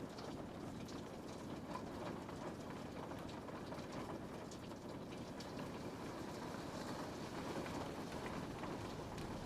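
Steady rain falling on a window, an even hiss with many small scattered drop ticks.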